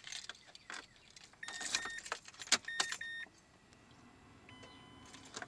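Clicking and rattling handling noises with two short electronic beeps, about a second and a half and about three seconds in, followed by a faint steady tone.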